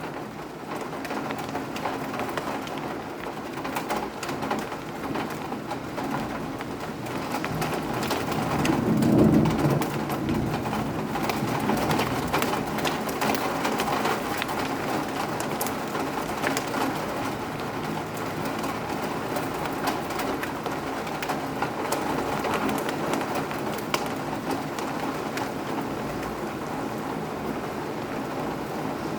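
Steady rain falling, a continuous hiss with many fine drop ticks. A low rumble swells and fades about nine seconds in.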